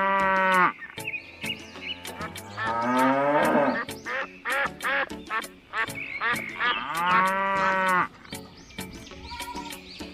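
Cattle mooing: three long, drawn-out calls, over a steady clicking beat.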